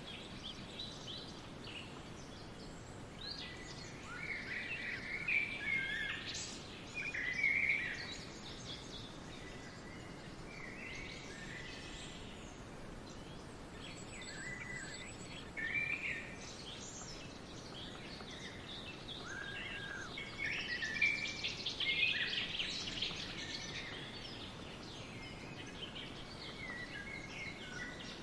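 Several wild birds chirping and singing in scattered short phrases over a steady background hiss. The calls come thickest a few seconds in and again past the middle.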